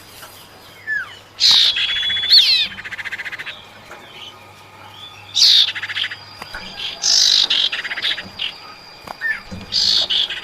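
Female common iora (cipau) calls used to lure a male: about four bursts of harsh, rapidly rattling calls, with short whistled notes between them.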